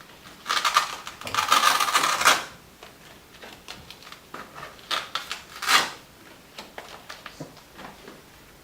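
Small objects and props being handled, clattering and rustling. There is a dense burst of clicking and rustling from about half a second to two and a half seconds in, then scattered clicks and one louder rustle a little before six seconds.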